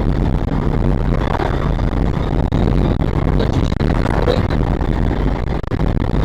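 Moving vehicle's engine and road noise: a steady low rumble under a broad hiss.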